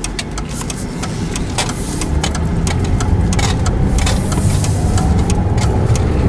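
Car engine and road noise heard from inside the cabin, getting louder as the car accelerates, with a faint rising whine midway. Irregular sharp ticks of raindrops striking the windshield.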